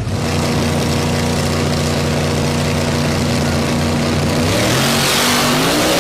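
Modified car engine running at a steady speed, then revving up with a rising pitch from about four and a half seconds in.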